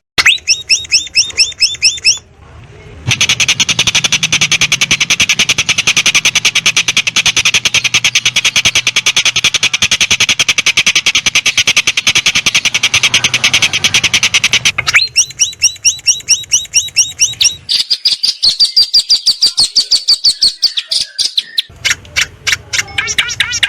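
Songbird calls from a masteran bird-song track, in back-to-back segments that switch abruptly. Fast strings of sharp repeated chirps give way about three seconds in to a long stretch of dense, high chattering. About fifteen seconds in it changes again to other rapid chirp series.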